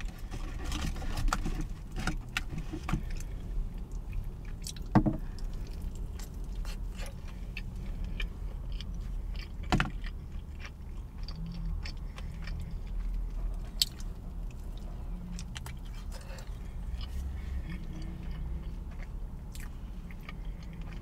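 Close-miked chewing and mouth sounds of someone eating a crispy fried chicken sandwich, with small clicks and crackles of the food and wrapper. A few sharper clicks stand out, the loudest about 5 and 10 seconds in. A steady low hum runs underneath.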